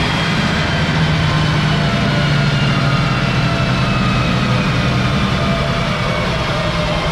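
Audi B5 S4 drift car's engine idling steadily on the dyno just after a rev, with a fainter higher whine slowly dropping in pitch.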